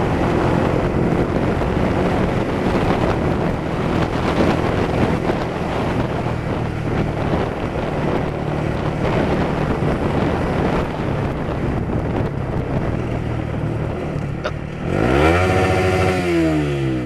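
A vehicle's engine running steadily under heavy wind and road noise while driving. Near the end the engine note dips and then climbs sharply as it revs.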